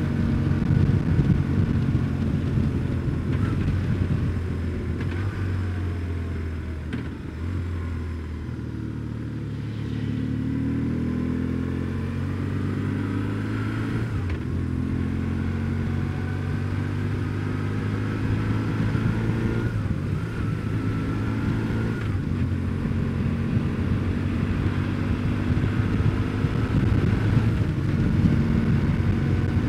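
BMW R1150GS boxer-twin engine running on the move. It eases off about six seconds in, then picks up again with its pitch climbing, and runs on steadily.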